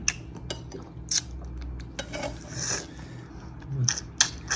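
Scattered light clicks, clinks and scrapes of cutlery against dishes while food is served and eaten, with a sharper click near the end.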